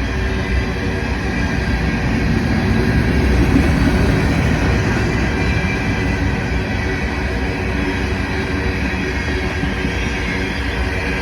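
Canadian National potash freight train rolling past: a steady, loud rumble of wheels on rail that swells slightly a few seconds in.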